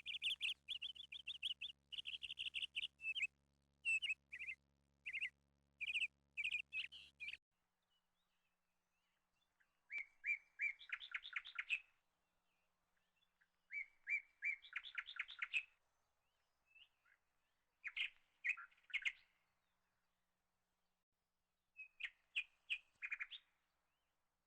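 Birdsong. A fast, continuous run of high chirps stops abruptly about seven seconds in. After that come four short phrases of rapid high notes, spaced about four seconds apart.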